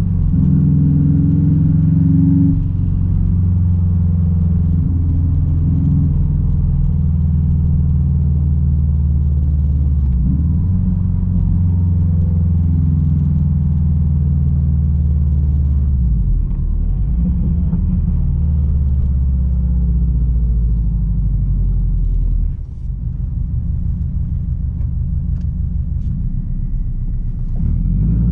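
Straight-piped 2006 Subaru WRX STI's turbocharged flat-four engine pulling the car along, a loud, low exhaust rumble whose pitch rises and falls several times with the throttle. It dips sharply once, about two-thirds of the way through.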